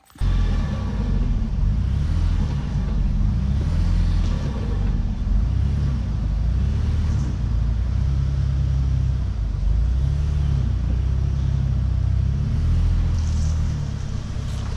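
Vehicle driving: a steady low engine and drivetrain rumble, shifting a little in level as it goes.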